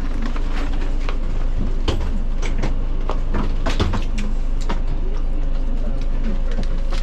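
Steady low rumble of a vehicle in motion, heard from inside its cabin, with frequent short rattles and clicks through it.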